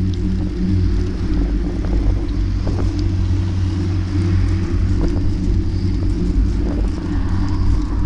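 Steady low rumble of a bike in motion, with a few faint clicks and knocks.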